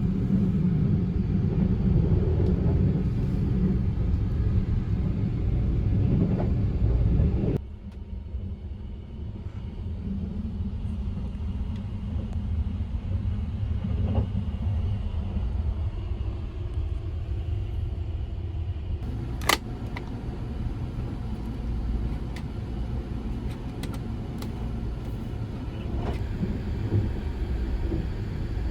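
Steady low rumble of a train running. It drops suddenly to a quieter rumble about seven seconds in, and there is a single sharp click about two-thirds of the way through.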